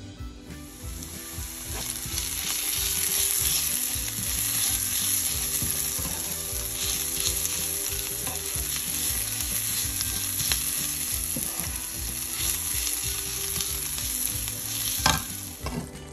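Chopped onion sizzling in hot oil in a nonstick wok while a spatula stirs it. There is a sharp clack about fifteen seconds in, and the sizzling stops shortly before the end.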